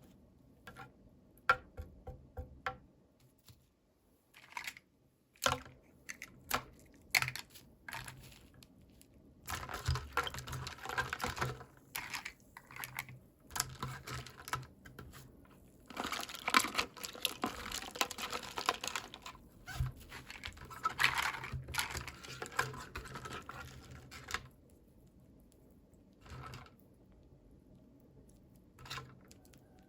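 Hands unboxing small toys: scattered sharp clicks and taps of plastic parts, then a long stretch of plastic packaging crinkling and rustling that dies away to a few more clicks near the end.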